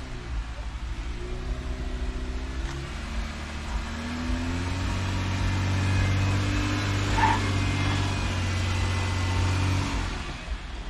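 Off-road Jeep engine revving under load on a hill climb: the pitch rises over the first few seconds, then holds at steady high revs and drops away near the end.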